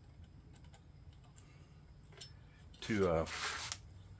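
Faint, scattered clinks and rubbing of small metal hand tools being handled. About three seconds in there is a short spoken word, followed by a brief hissing rustle.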